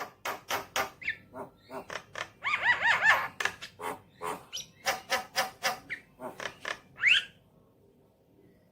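Javan myna calling: a quick run of short, harsh chattering notes, about three a second, with a cluster of pitched whistled notes partway through and an upward-sliding whistle near the end before the calling stops.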